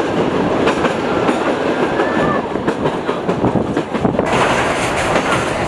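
The vintage Sóller train running along the track, its wheels clattering over the rails in an uneven clickety-clack. The sound turns brighter and hissier about four seconds in.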